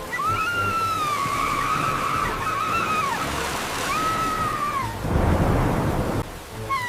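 Two long, high-pitched whining cries from a small animal over the steady rush of rain and floodwater. The first lasts about three seconds, the second about a second. A louder surge of rushing water comes about five seconds in.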